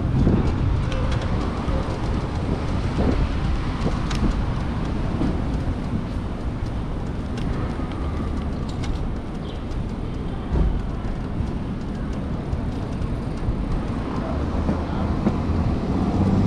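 Steady wind rush and road noise on the microphone of a moving Onyx RCR electric moped, with a few short knocks scattered through.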